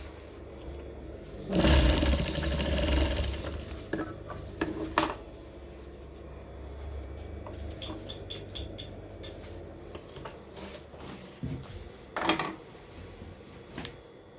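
Electric sewing machine running a short stitch burst about a second and a half in, its motor hum dying away a few seconds later. A quick run of light clicks and a sharp knock follow near the end.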